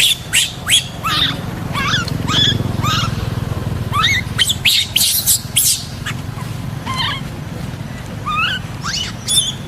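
Monkeys giving short, high squeaks and chirps, many of them in quick runs near the start and again about four to six seconds in, over a steady low hum.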